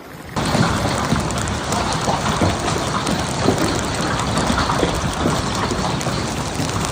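Heavy hail pelting down, a dense clatter of many hailstone impacts that starts abruptly about half a second in and keeps on steadily.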